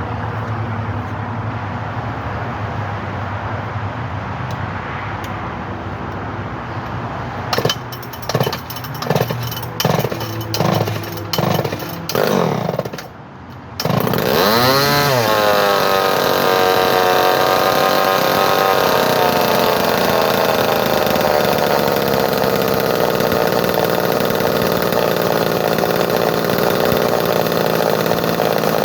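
Early model 245 two-stroke chainsaw cold-started: a series of quick pulls on the starter cord from about 7 seconds in, then the engine catches about halfway through, revs up and back down, and settles into a steady run.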